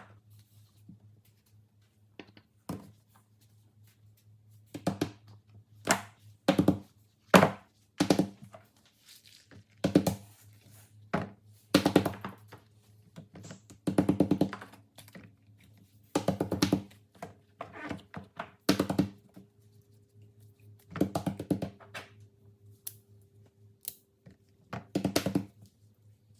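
Plastic fidget toys being handled: a series of short knocks and quick clicking clusters every second or two, over a faint steady hum.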